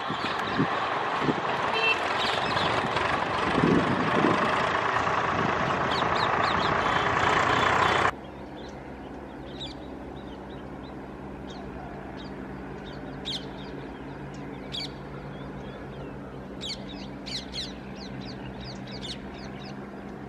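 Passenger train's coaches running along the track, a loud steady rush of wheels on rails, cut off abruptly about a third of the way in. Then quiet outdoor ambience with a steady low hum and birds chirping in short calls.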